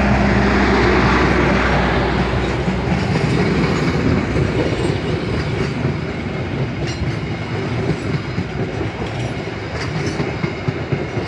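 Train of passenger coaches rolling past on the rails, wheels clattering over the rail joints. A steady low hum near the start fades after a couple of seconds, and the clatter slowly dies away as the last coaches go by.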